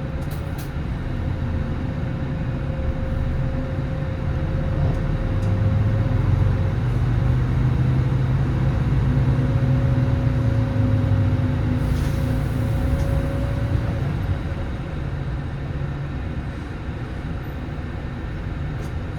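Diesel engine of a 2010 Nissan Diesel PKG-RA274MAN city bus running; it grows louder a few seconds in, with a steady whine over the low drone, then eases off a little after the middle.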